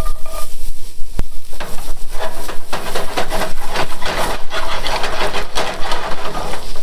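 Garlic sizzling in a hot pan while it is stirred, a utensil scraping the pan in quick repeated strokes from about a second and a half in. A single sharp click comes just after one second.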